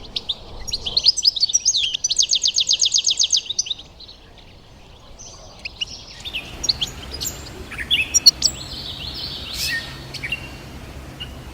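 Songbirds singing: a loud, fast trill of repeated high notes for the first few seconds, then, after a short lull, scattered chirps and calls from several birds.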